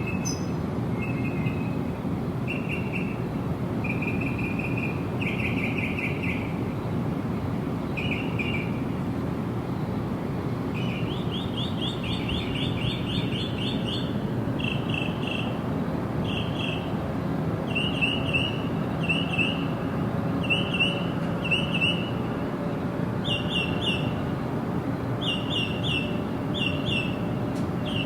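Small birds chirping in short bursts of quick repeated notes, sparse at first and coming about every second after roughly ten seconds, over a steady low background rumble.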